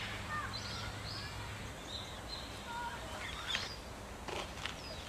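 Birds chirping, with scattered short rising and falling calls over a faint steady low hum.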